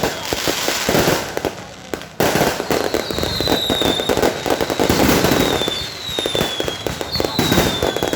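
Many fireworks going off at once in a dense, rapid crackle of pops and bangs. From about three seconds in, several short whistles fall slightly in pitch over about a second each, in the manner of whistling rockets.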